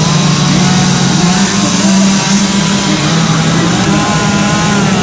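Two-stroke chainsaw engine running hard while carving wood, its pitch stepping up and down as the throttle and cutting load change.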